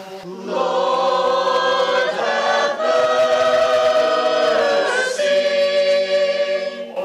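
Church choir singing a sustained liturgical response in a Ukrainian Catholic service, holding full chords that shift about every two seconds.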